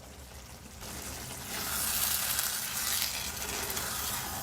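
Matar paneer curry of peas and fried paneer sizzling in the pan on a medium flame, swelling louder about a second and a half in.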